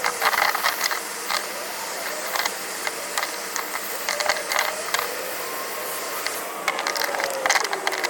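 Angle grinder working over a wooden box to distress it: a steady grinding hiss with frequent short scraping hits as the disc bites, the motor's pitch dipping and recovering under load.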